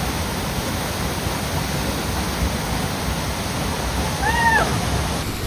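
Waterfall pouring in a steady, loud rush. About four seconds in there is a short call that rises and then falls in pitch.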